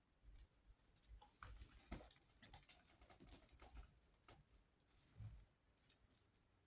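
Faint, irregular rustling and light clicks from handling a bird's nest of dry twigs and lifting it off a gel printing plate.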